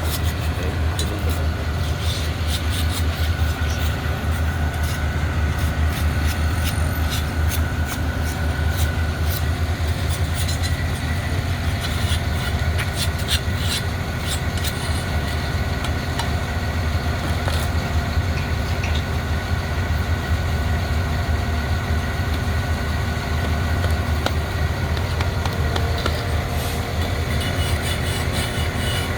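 A steady low engine hum runs throughout, with scattered sharp crackles and ticks over it, thickest in the middle.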